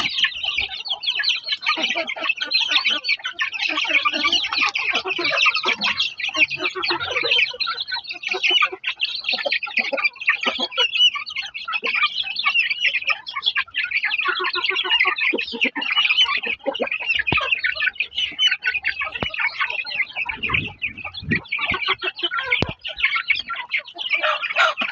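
Chickens: many young chicks peeping continuously and shrilly, with lower clucks now and then, typical of chicks busy feeding.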